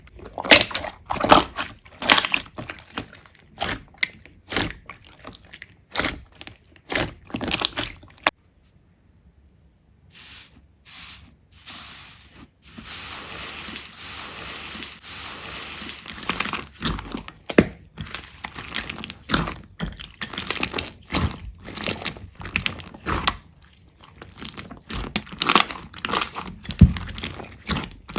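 Slime being squeezed and pressed close to the microphone, with quick runs of sharp crackling pops. The sound breaks off to a second of silence about eight seconds in, turns to a softer continuous squishing for a few seconds, then the pops return.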